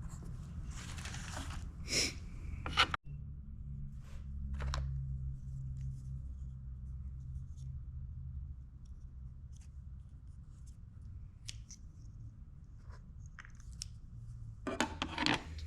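Snips and sharp clicks of hand wiring tools cutting and working small wires, scattered over a low steady hum.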